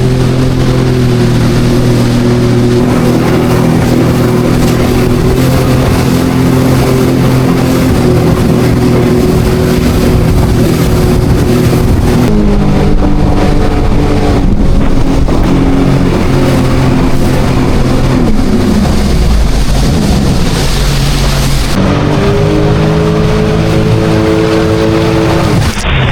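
Jet ski engine running at speed under heavy wind and water rush. The engine note changes with the throttle: it steps down about halfway through, slides slowly down later, and picks up again near the end.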